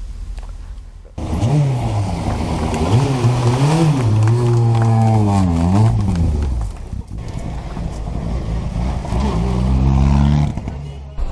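Rally car engine at full throttle, revs climbing and dropping sharply with each gear change, then falling away in pitch before revving up again near the end. The sound cuts in abruptly about a second in.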